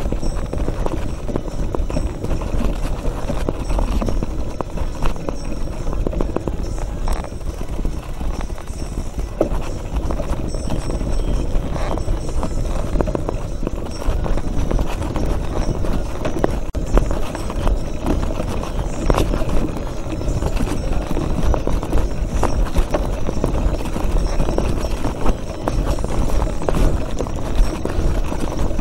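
Mountain bike riding over a rough trail: continuous rattling and knocking of the bike over stones, over a steady low rumble.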